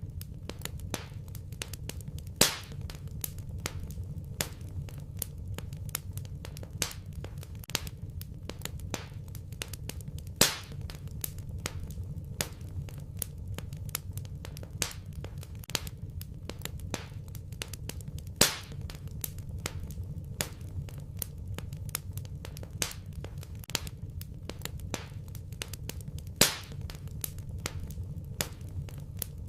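Wood fire burning in a fireplace, crackling with many small snaps over a low steady rumble. Four louder pops come evenly spaced about eight seconds apart.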